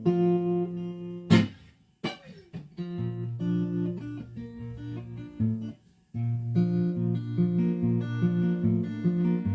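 Acoustic guitar playing the song's intro, picked notes over a bass line, with one sharp strike about a second in and two short breaks in the playing.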